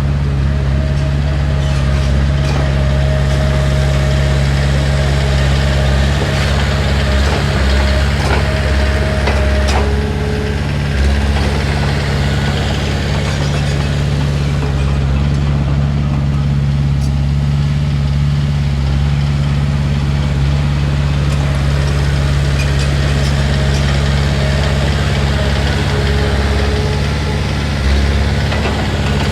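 Heavy diesel engine of an earthmoving machine running steadily, with a couple of sharp clanks about ten seconds in.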